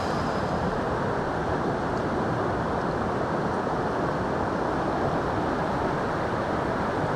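Steady rushing of a waterfall, an even roar of falling water with no change in level.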